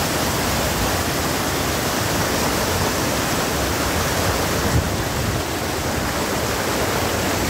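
Sirki Waterfall's falling water making a steady, unbroken rush of noise.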